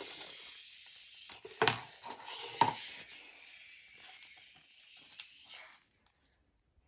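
Handling noise: a fading hiss with two sharp knocks and a few lighter clicks and rustles, as of puppets or props being moved, going quiet near the end.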